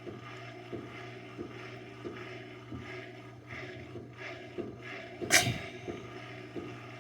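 Washing machine running badly unbalanced: a steady low hum with a knock about every two-thirds of a second, the loudest a little after five seconds in.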